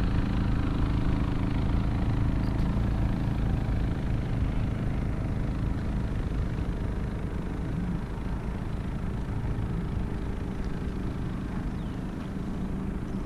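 A motor engine running steadily with a low hum that grows slightly fainter partway through.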